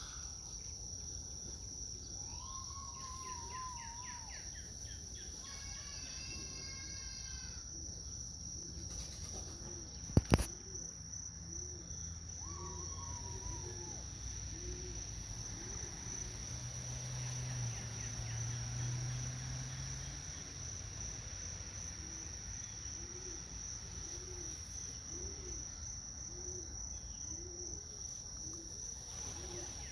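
Outdoor evening ambience: a steady high-pitched drone of crickets, with scattered bird calls. There is a sharp knock about ten seconds in and a low hum in the middle stretch.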